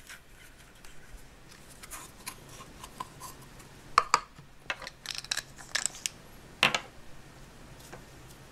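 Scattered small clicks and taps of plastic toys being handled: a Play-Doh Plus tub being opened and Play-Doh pushed into a plastic whipped-cream extruder. The sharpest clicks come about 4 seconds in and near 7 seconds.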